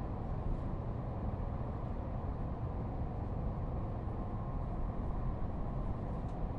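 Steady low rumble of a train running along the track, with no clear rhythm and a faint click near the end.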